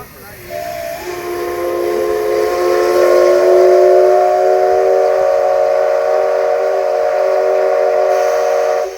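Steam whistle of the C62 2 steam locomotive giving one long blast, several notes sounding together. It starts with a slight upward slide, holds steady for about eight seconds and cuts off sharply near the end.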